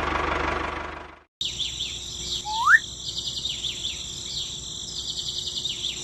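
A small engine running, fading out about a second in. Then birds chirping and twittering in a steady high chorus, with one loud rising whistle near the middle.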